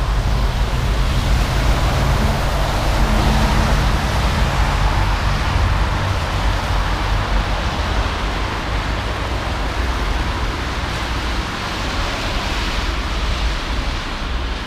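Steady outdoor noise with a continuous low engine rumble underneath.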